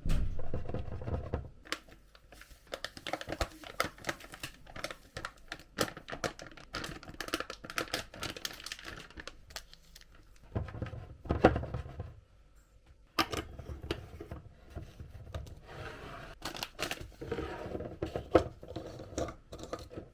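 Plastic food packaging being handled, crinkling and tearing, with irregular clicks and a few dull knocks as packets and containers are moved about.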